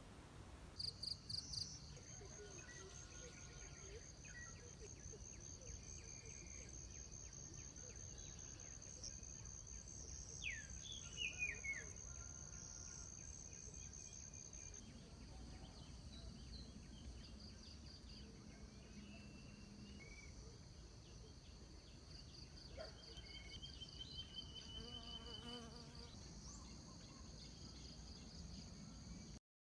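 Field crickets chirping in steady, fast-pulsed trills, at least two insects at different pitches, faint. A few brief, louder falling calls break in about ten seconds in.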